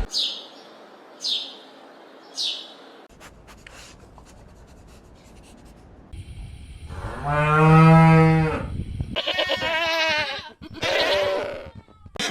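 A cow mooing once, long and loud, about seven seconds in, after three short high chirps near the start. Two shorter wavering animal calls follow near the end.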